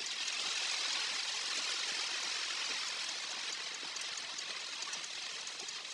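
Steady hiss of heavy rain, with scattered faint drop ticks, swelling slightly about half a second in.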